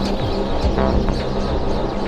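Live electronic music played on synthesizers: a steady low drone under repeated low, falling thuds and chirping higher synth sounds.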